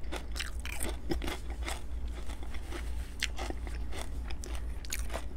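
Close-miked chewing of crispy bacon, with many small irregular crunches.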